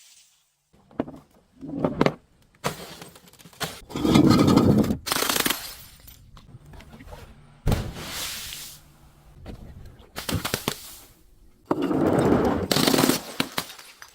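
Objects being smashed and crushed: about eight loud, irregular cracking, crunching bursts, each lasting up to about a second.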